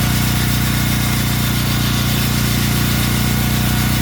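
An engine or motor running steadily at a constant speed, a loud, even hum.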